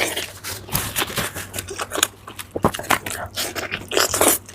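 Close-miked eating: chewing, biting and wet mouth sounds with irregular clicks and smacks.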